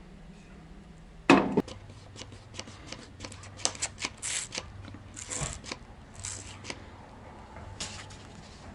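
Handling noises on a workbench: one loud knock about a second in, then scattered clicks and taps and several short hissing bursts.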